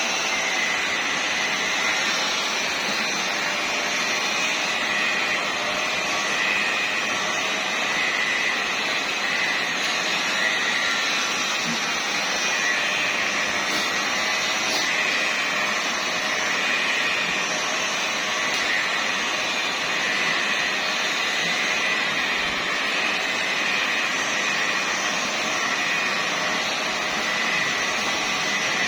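Electric car polishing machine running steadily on painted bodywork, a constant motor whine over a hiss.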